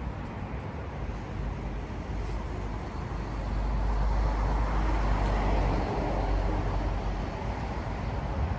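Steady outdoor background noise with a low rumble that swells for a few seconds in the middle and then eases off.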